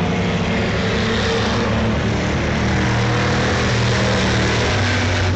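Vintage race cars' engines running at speed, a loud steady drone whose pitch shifts slowly.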